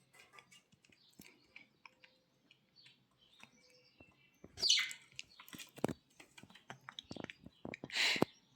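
Budgerigar chirping amid scattered soft clicks and taps, with two louder, high, falling calls: one a little past halfway and one near the end.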